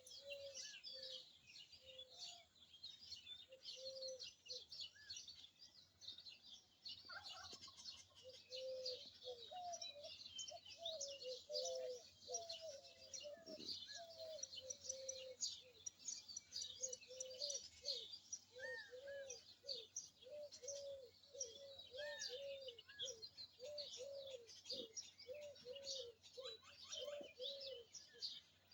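Many birds chirping together in a dusk chorus: a dense tangle of quick high chirps, with a lower short call repeated over and over through most of it.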